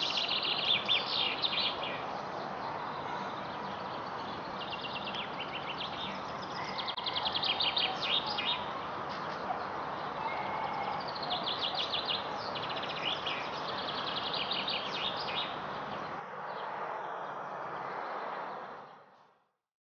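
A songbird singing short phrases of rapidly repeated high notes every few seconds, over a steady background hum of distant city noise. The sound fades out near the end.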